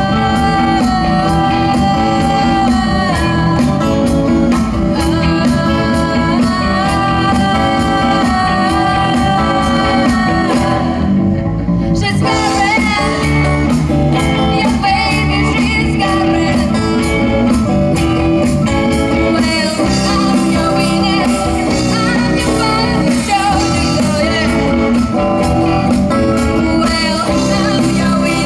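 Live rock band playing, with guitar, drums and singing. About eleven seconds in the music drops out for a moment, then comes back in.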